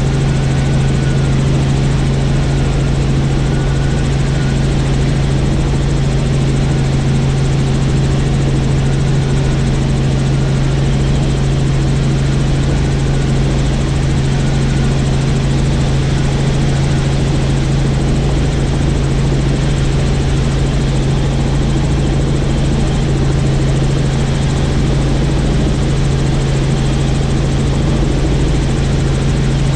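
Helicopter in flight: a steady drone of engine and rotor with a strong, unchanging low hum.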